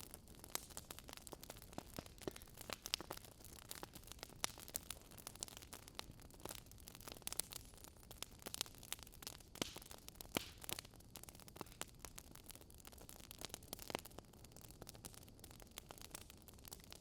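Logs burning in a fireplace, crackling with irregular sharp pops and snaps over a soft steady hiss.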